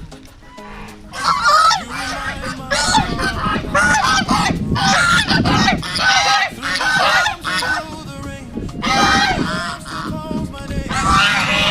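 A flock of domestic geese honking, many loud overlapping calls, starting about a second in and carrying on without a break.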